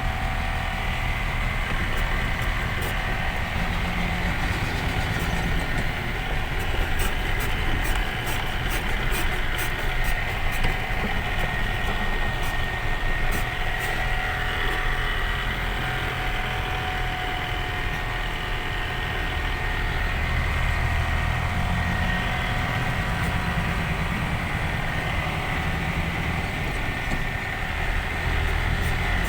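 Truck engine running and road noise heard from inside the cab while driving, a steady low rumble with a faint whine. A run of light, evenly spaced ticks comes between about seven and ten seconds in.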